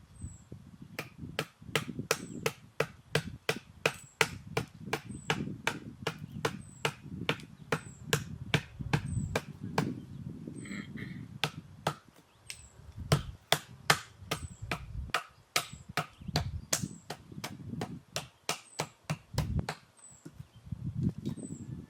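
Firewood being split: sharp, evenly spaced chopping knocks, about two or three a second. A small bird's faint high chirp repeats every second or two.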